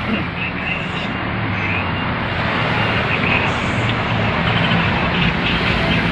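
Steady vehicle-like rumble with a low hum underneath, holding the same level throughout, with no distinct knocks or clanks standing out.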